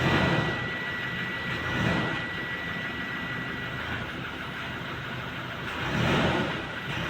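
A vehicle engine running, with a thin steady whine over it and the loudness swelling and easing every couple of seconds.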